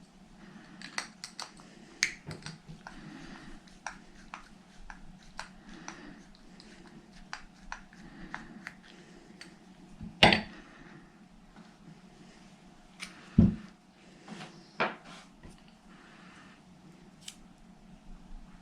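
Small metal clicks and ticks of hand tools and screws as the pull-start is unbolted from a nitro RC glow engine, with two louder knocks about ten and thirteen seconds in.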